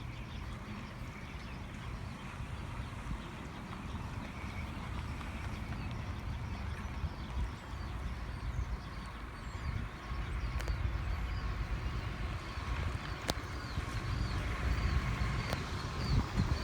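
Low rumble of an approaching CN freight train, growing steadily louder. A faint, high-pitched ticking repeats about twice a second above it.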